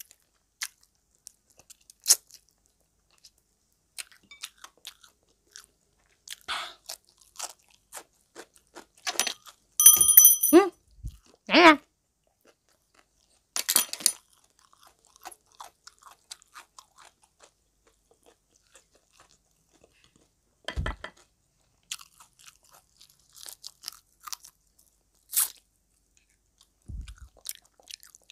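Close-up chewing and crunching of crispy fish-sauce-fried frog, with scattered wet mouth clicks and smacks. The loudest crunches come about ten to twelve seconds in.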